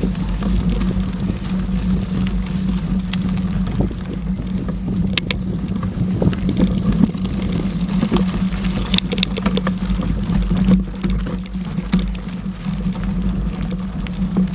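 Mountain bike riding on a forest trail, heard through a ride-mounted camera: steady wind rumble on the microphone over a constant tyre hum. A few short rattling clicks from the bike come about five seconds in and again about nine seconds in.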